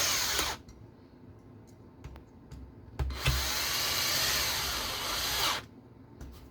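Small cordless power screwdriver running in two bursts, driving screws into an RC car chassis: a short run that stops about half a second in, then a longer run of about two and a half seconds, with light clicks of handling in between.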